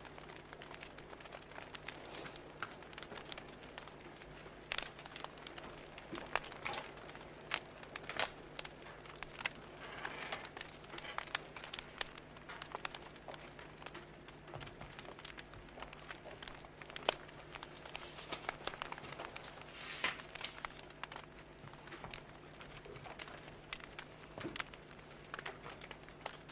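Wood fire crackling: irregular sharp pops and snaps over a steady faint hiss and low hum.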